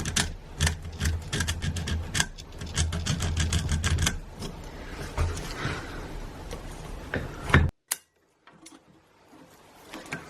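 Rapid clicks and metallic taps from hand work on starter motor parts, over a steady low hum. The sound cuts off abruptly near the end.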